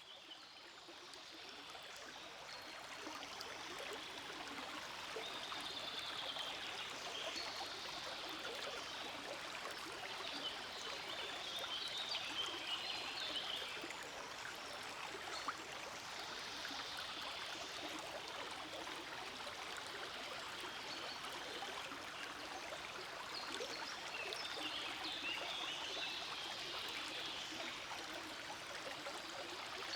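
Forest stream flowing in a steady rush of water, fading in over the first few seconds.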